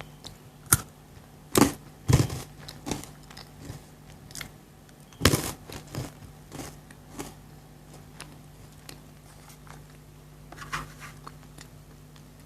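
Crunchy chocolate bitten and chewed close to the microphone: a string of sharp crunches, loudest in the first half, then sparser chewing with a quiet spell near the end.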